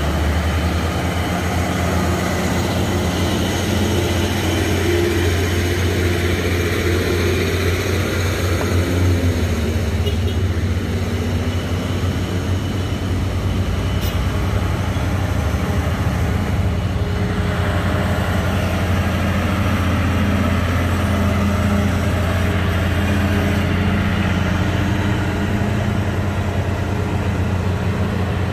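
A heavy vehicle's engine running steadily under load on a steep climb: a continuous low drone with a higher engine note that shifts in pitch now and then.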